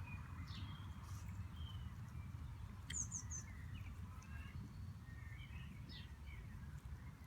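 Wild birds chirping here and there, short calls with a quick high burst of chirps about three seconds in, over a steady low background rumble.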